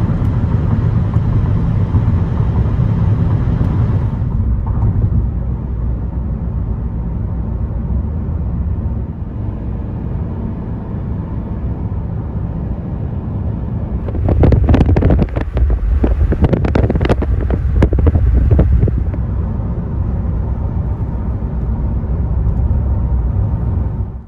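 Wind buffeting the microphone: a loud, steady low rumble, with a stretch of stronger gusts a little past the middle.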